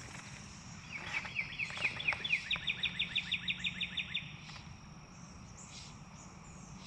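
A songbird singing a run of quick, high, down-slurred whistled notes that speed up into a trill, starting about a second in and stopping after about three seconds. A steady high insect drone runs underneath.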